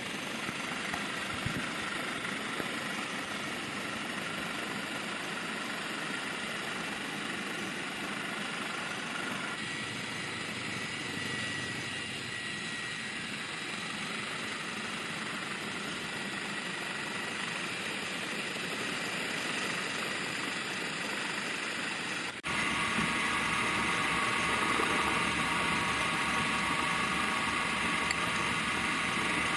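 Steady engine noise from a rescue vehicle or aircraft, changing abruptly twice, about ten seconds in and again about twenty-two seconds in.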